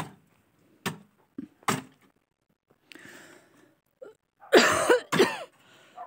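A few sharp clicks or knocks, then loud short vocal sounds from a person, not words, about four and a half seconds in.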